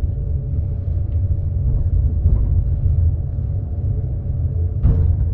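Train rumbling: a steady low rumble with a faint steady hum above it, and a short knock near the end.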